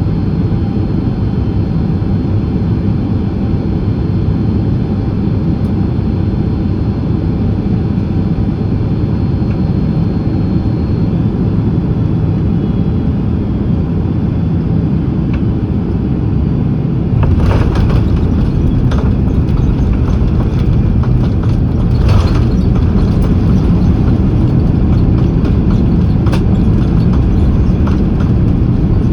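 Steady cabin rumble of a Boeing 767-300ER on final approach. About 17 s in the airliner touches down, and the rumble grows louder and rougher as it rolls down the runway, with irregular jolts and knocks.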